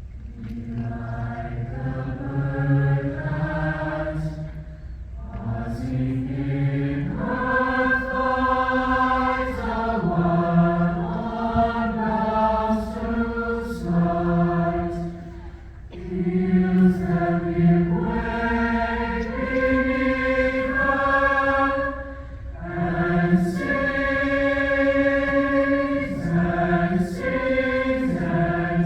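Choir singing sustained chords in long phrases, with brief breaths between phrases, over a steady low rumble.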